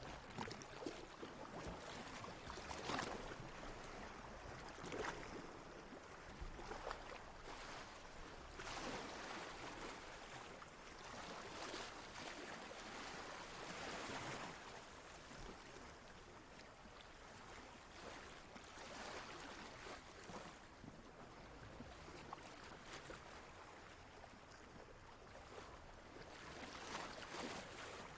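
Water lapping and splashing in irregular surges every second or two over a steady, quiet wash.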